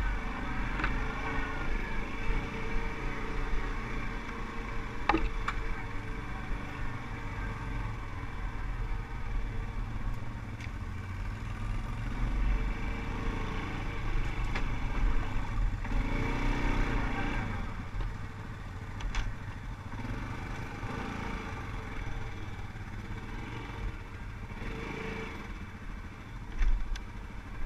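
ATV (quad bike) engine running under way, revving up and down, over a steady low rumble, with a sharp knock or clatter about five seconds in.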